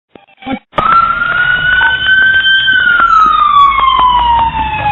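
An emergency vehicle siren wailing loudly, its pitch rising slowly and then gliding down, with a second siren tone sliding down higher up. A short knock comes just before the siren cuts in.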